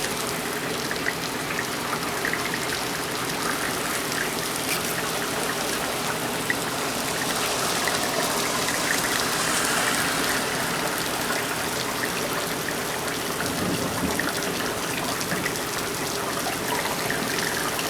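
Torrential rain pouring down, heard through an open window: a steady dense rush of water with gushing and splashing, swelling slightly about halfway through.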